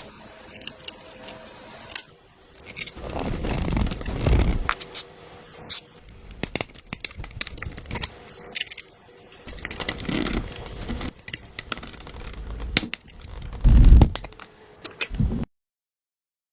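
Hand-work noises on small tool parts: irregular scraping with scattered sharp clicks and rattles, and a couple of heavier low thumps. The sound cuts off abruptly about a second before the end.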